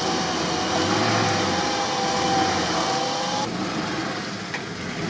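Off-road SUV engines running, with a steady whine held over the engine noise. About three and a half seconds in, the whine stops and a quieter engine sound carries on.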